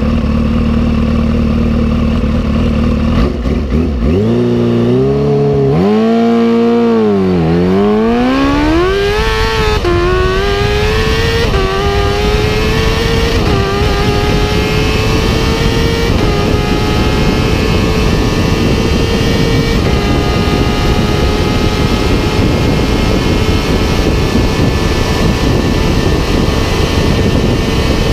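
Kawasaki H2's supercharged inline-four engine accelerating hard at full throttle. The revs rise and fall at first, then climb through several upshifts, each a small drop in pitch. From about twenty seconds in it holds a steady high note under heavy wind rush at top speed.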